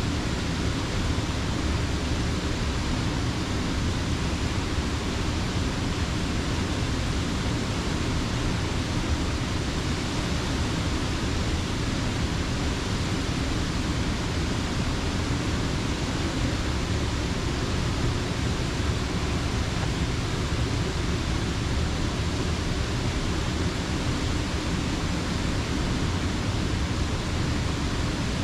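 Steady rushing of Slippery Rock Creek's water: an even, unbroken noise, heaviest in the low end, with no single splashes standing out.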